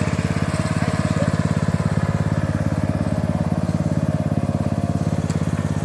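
Riding lawn mower's engine running steadily with an even, rapid pulse.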